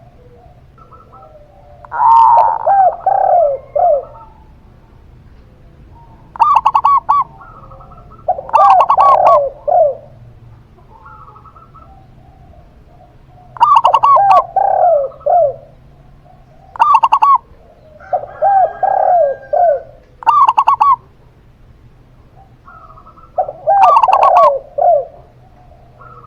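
A zebra dove and a spotted dove cooing. Their phrases come in about six bouts, each a quick run of arching, falling coo notes, with short pauses between.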